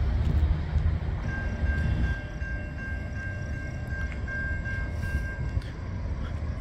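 Double-stack intermodal freight train rolling past with a steady low rumble as its last cars go by. A thin, steady high tone sounds over it from about a second in until near the end.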